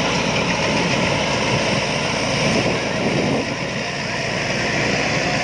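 Rice combine harvester running steadily, a continuous loud mechanical drone.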